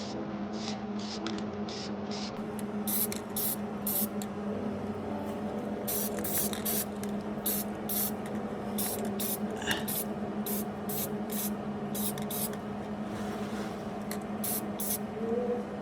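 Rust-Oleum aerosol spray paint can hissing in short repeated bursts, about two a second, over a steady low hum.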